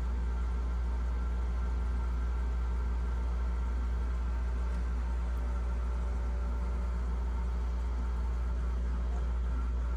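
Steady hum of a GE refrigerator's fresh-food evaporator fan motor running, with a low, even drone and a few steady tones that do not change. The fan had seized from a clogged drain and, after lubricating, now spins freely.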